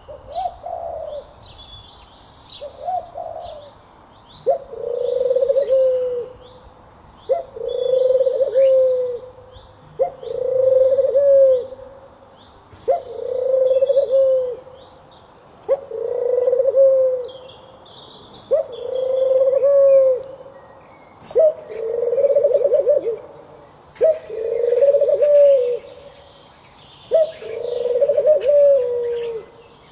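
A bird cooing over and over, one low call roughly every three seconds, with small birds chirping behind it.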